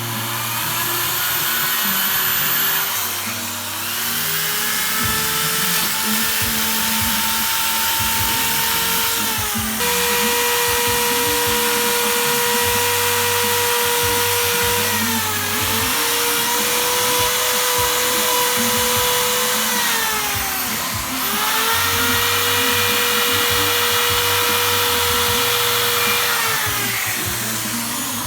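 Handheld electric power tool, a drill or grinder, running with a high steady whine and hiss; its pitch sags and picks back up about four times as it is pressed into the work.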